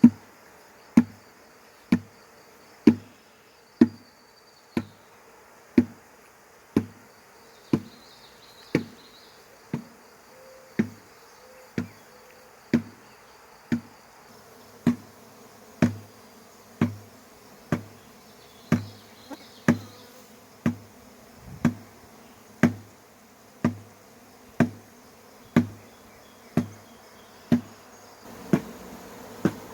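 Tanging a honeybee swarm: a metal object struck in a steady beat of about one blow a second, each ringing briefly, with the swarm buzzing behind.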